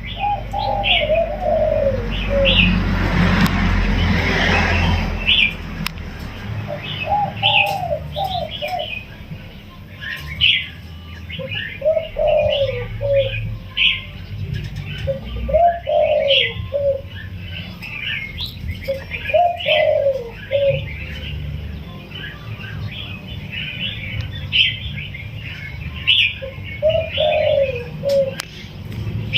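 Spotted dove cooing: about six phrases of low, falling coo notes spaced several seconds apart. Many small birds chirp throughout, and there is a burst of rustling noise a few seconds in.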